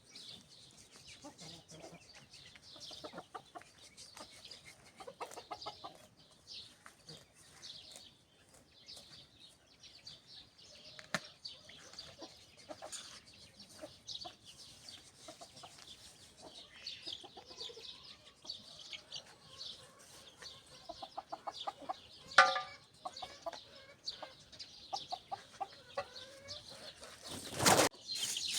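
Chickens clucking in scattered short calls, with small birds chirping high above them. There is one louder squawk about 22 seconds in, and a brief loud rush of noise near the end.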